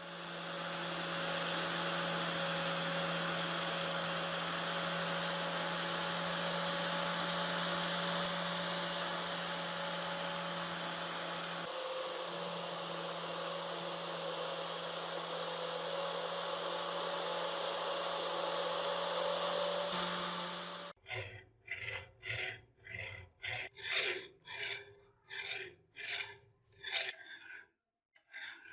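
A power tool grinding metal runs steadily for about twenty seconds, then stops. It is followed by quick back-and-forth rubbing strokes of hand abrasion on the metal, about two to three a second.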